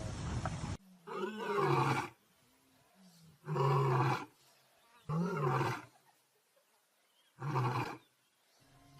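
A large animal calling: four loud, separate calls, each under a second long and spaced about one and a half to two seconds apart, after a brief stretch of steady noise at the start.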